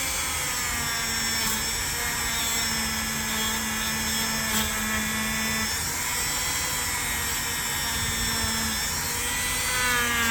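Small electric rotary tool running steadily as it polishes a pocket knife blade, a continuous high whine whose pitch shifts slightly a few times.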